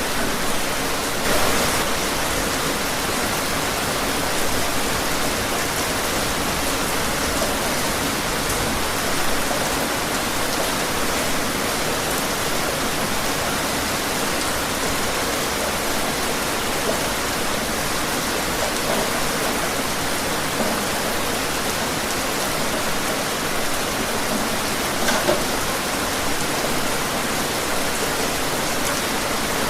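Steady rainfall, an even hiss of drops with a few slightly louder splashes, at about one and a half seconds and again near twenty-five seconds.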